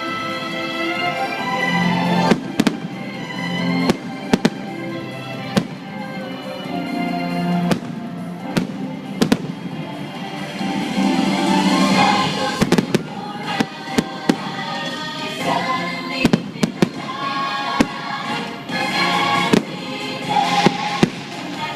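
Fireworks bursting in frequent sharp bangs, some in quick clusters, over loud show music.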